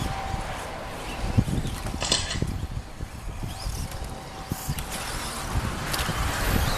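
Electric radio-controlled stadium trucks racing on a dirt track: a steady mix of motor and tyre noise, with a few sharp knocks and a brief high-pitched whine about two seconds in.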